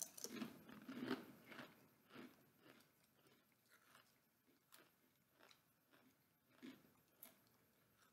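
Faint crunching and chewing of crispy fried snack wheels being bitten into. The crunches come thick in the first couple of seconds, then thin out to scattered soft crunches.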